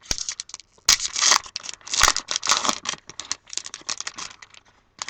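Trading card pack wrapper being torn open and crinkled, an irregular run of crackling with a few sharper snaps, thinning out near the end as the cards come out.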